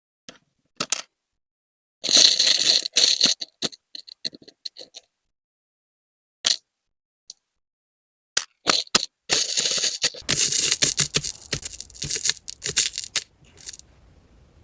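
Stone beads clicking and clattering as they are sorted by hand. A few single clicks, then a dense run of rattling about two seconds in, scattered clicks, and a longer stretch of rattling from about eight and a half seconds that stops near the end.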